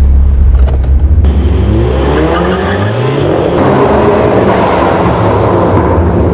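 MINI four-cylinder engine through a Quicksilver sport exhaust: a deep low drone, then revs climbing from about two seconds in as the car accelerates hard, with loud exhaust noise after that.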